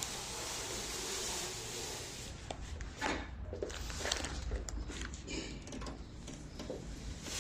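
Rubbing and handling noise for about two seconds, then scattered light knocks and clicks.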